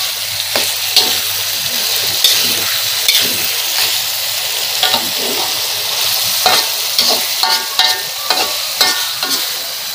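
Tofu and salted fish stir-frying in a pan: a steady sizzling hiss, with a spatula scraping and clicking against the pan over and over as the food is stirred.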